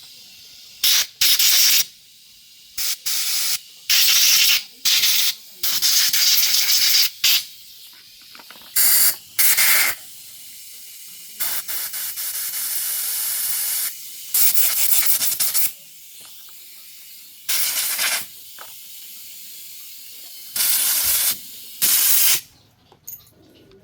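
Pressurised spray hissing in repeated short bursts, about a dozen in uneven succession, each from under a second to about two seconds long, with a longer, steadier and quieter spray about halfway through.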